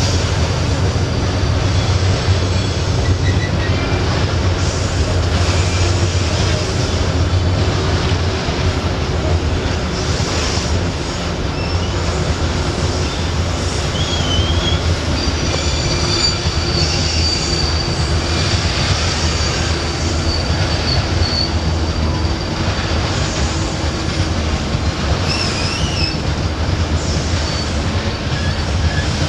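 Loaded iron-ore gondola cars rolling on a curve: a steady rumble of steel wheels on rail with high-pitched wheel squeal coming and going, held longest about halfway through.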